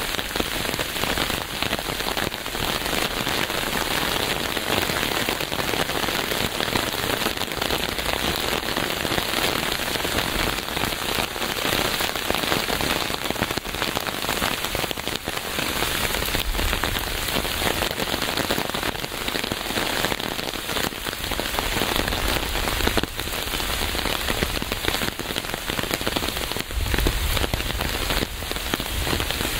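Steady rain falling, a dense patter of many drops hitting a surface, with a low rumbling swell now and then.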